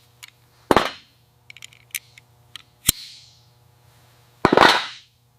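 Metal tools and engine parts clanking during camshaft removal: a knock about a second in, a sharp clank near the middle and a louder, longer clatter near the end, with a few light clicks between them.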